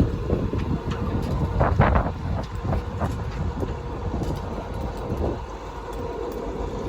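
A boat motor running steadily under way, with wind buffeting the microphone.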